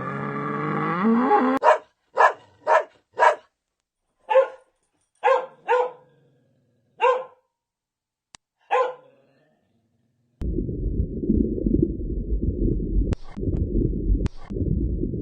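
A long pitched call rising in pitch, then a dog barking about nine times in short single barks. Near the end comes a steady low rumbling sound, broken twice by short gaps.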